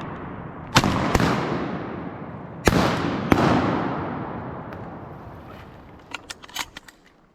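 Four shotgun blasts from a duck hunt, two in quick succession, then two more about a second and a half later, each trailing off in a long echo. A few faint clicks come near the end.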